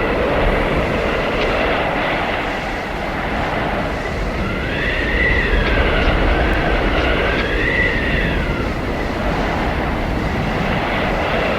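Blizzard wind blowing steadily, with a high whistling howl that rises and falls twice in the middle.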